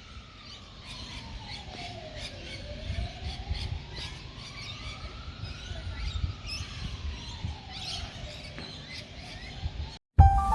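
A siren wailing slowly, its pitch falling, rising and falling again over several seconds, with birds chirping over a low background rumble. It cuts off near the end.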